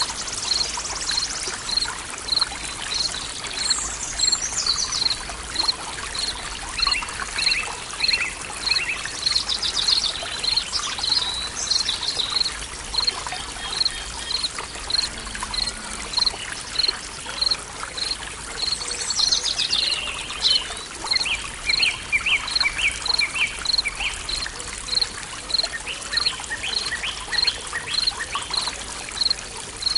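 Forest ambience: running water trickling steadily, with birds singing in short glides and trills over it. A short high chirp repeats evenly, about one and a half times a second.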